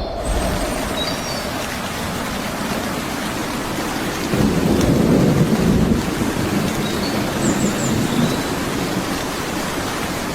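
Steady heavy rain, with a low roll of thunder that swells about four seconds in and fades by about six seconds.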